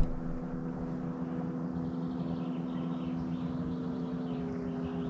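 A boat engine on the river droning steadily as a hum of several held tones, one of which slides slightly lower in the second half.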